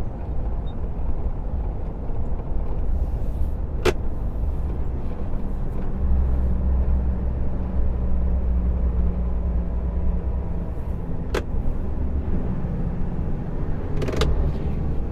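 Truck engine and road noise heard inside the cab while driving, a steady low drone. Two sharp clicks sound, about four seconds in and again near eleven seconds.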